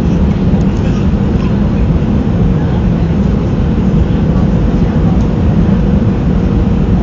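Steady engine and airflow noise inside the cabin of a Boeing 737-300 in flight: a deep, even rumble with a faint steady hum above it.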